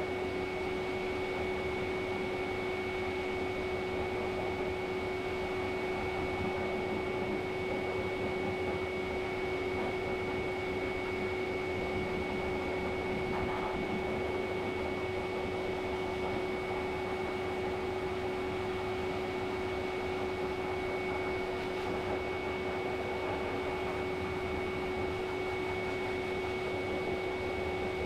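A small electric motor running steadily, giving an even whir with a constant low hum and a high steady whine.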